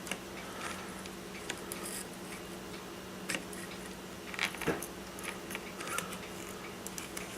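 Scattered light clicks and taps of small parts being handled while fitting a brushless RC motor and its screws to the motor mount, over a steady low hum.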